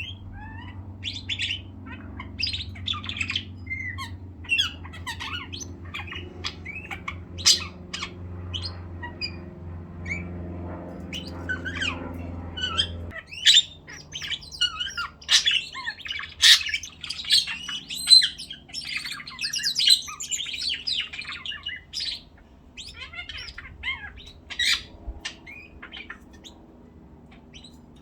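Pet birds chirping and squawking in many short, sharp calls. A low steady hum underneath stops abruptly about halfway through.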